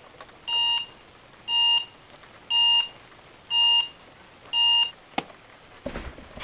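Electronic alarm clock beeping about once a second, five beeps on the same high tone. A sharp click follows, then a rustling hiss starts near the end.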